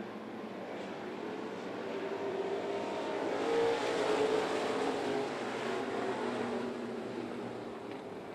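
Dirt-track race car engines running at slow caution pace. The sound swells to a peak about halfway through and fades again as the cars pass.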